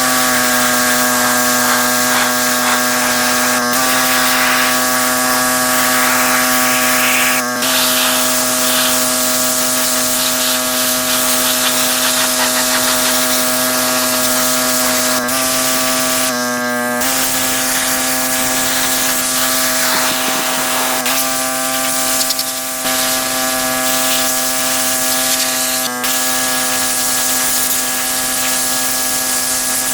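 Pressure washer running, a steady motor-and-pump hum over the hiss of the spray jet, faltering briefly several times as the flow changes.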